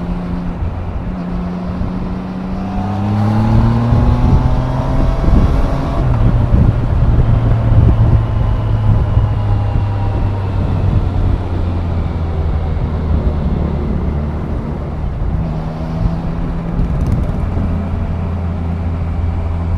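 Triumph Daytona 660's three-cylinder engine running under way. About three seconds in it pulls with a rising pitch and grows louder, then holds a steady note, and the pitch shifts again near the end.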